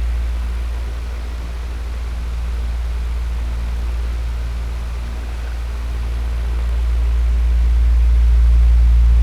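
Electric fan running: a steady rush of air over a low motor hum, its loudness slowly dipping and swelling, quietest about a second and a half in and loudest near the end.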